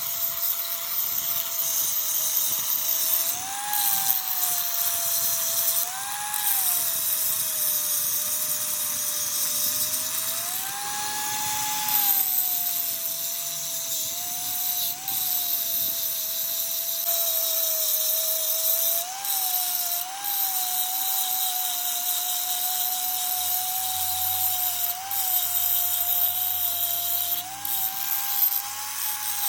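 Electric power tool motor running with a steady high whine and a hiss over it. The pitch wavers and briefly rises several times.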